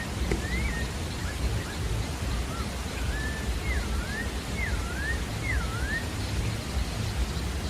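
A sabiá-da-várzea thrush singing a phrase of clear whistled notes, the later ones swooping down and back up about once every three-quarters of a second, over a steady hiss and low rumble.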